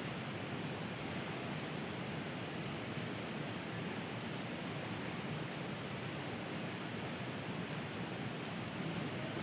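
Steady rain falling, a continuous even hiss with no change in level.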